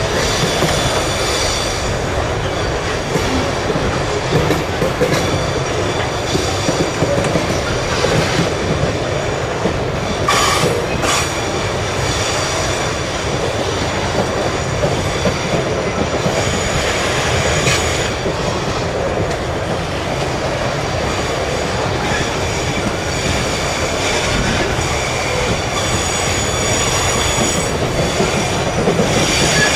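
Freight train wagons rolling along the track: a steady rumble with thin high wheel-squeal tones, and two sharp clanks about ten seconds in.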